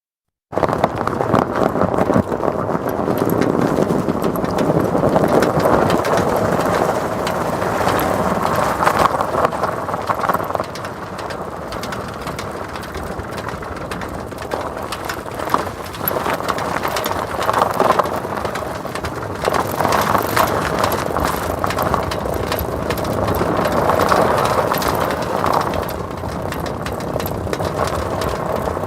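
Vehicle rolling through snow on chained tyres: the tyre chains rattle and clink in a dense, rapid patter over the crunch of packed snow, starting about half a second in and swelling and easing in loudness as it goes.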